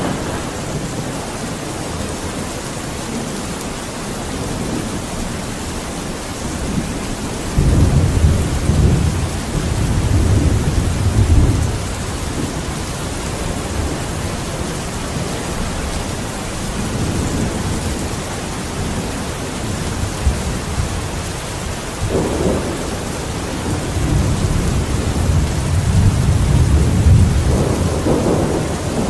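Steady rain with thunder rumbling twice: a low rumble begins suddenly about a quarter of the way in and fades after a few seconds, and another builds from about three-quarters of the way in and swells near the end.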